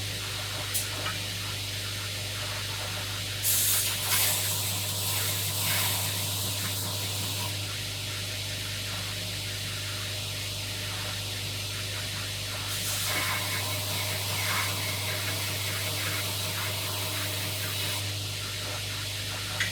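Homemade belt grinder running: its electric motor hums steadily under the even hiss of the abrasive belt, fairly quiet overall. The hiss grows louder for a few seconds about three and a half seconds in and again near the end.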